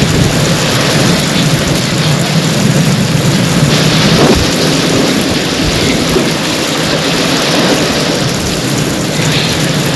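Heavy rain pouring steadily, with a low rumble of thunder underneath. The rain swells briefly about four seconds in.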